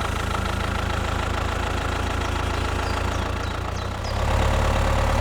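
Tractor engine idling, a steady low hum that gets a little louder about four seconds in.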